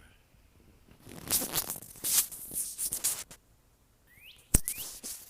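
Rustling, scraping noises for about two seconds, then near the end two short bird chirps that glide upward, with one sharp click between them.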